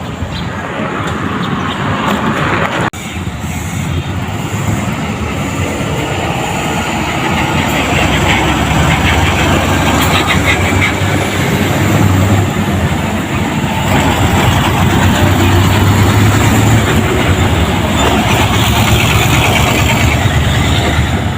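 Heavy truck's diesel engine running close by with road noise. The sound grows louder over the first several seconds, then holds steady.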